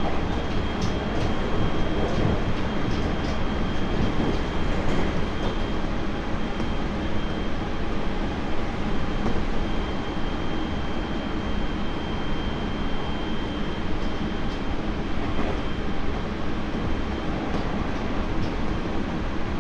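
Interior running sound of a Tobu 30000 series electric train motor car with Hitachi IGBT-VVVF control, travelling at steady speed: a constant rumble of wheels on rail with a faint steady high tone over it. Light clicks come over rail joints, mostly in the first few seconds.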